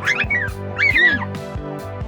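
Newborn puppy squealing twice: two short, high, wavering cries in the first second or so, the second louder, over background music.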